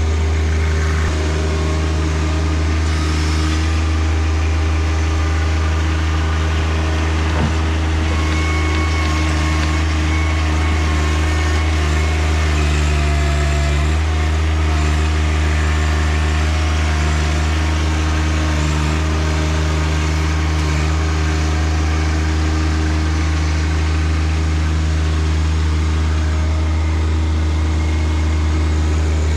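John Deere 1025R compact tractor's three-cylinder diesel engine running steadily while working the 260B backhoe, its pitch shifting slightly about halfway through.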